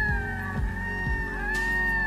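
Red-throated loon giving drawn-out wailing calls, each rising and then falling in pitch, one fading just after the start and the next about one and a half seconds in, over background music with low thuds.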